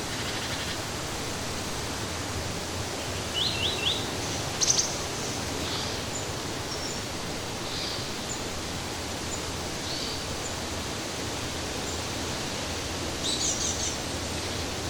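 Steady rush of running water with small birds chirping over it now and then: a quick run of three chirps about three and a half seconds in, a louder burst a second later, scattered single chirps, and a short trill near the end.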